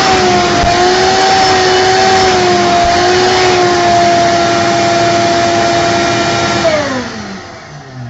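Vacuum cleaner motor running steadily with a high whine, then switched off about seven seconds in, winding down in a falling whine.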